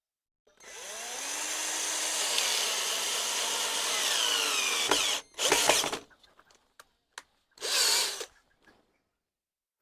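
Handheld power tool running for about four and a half seconds, its pitch wavering and dipping as it works into the material, then two short bursts.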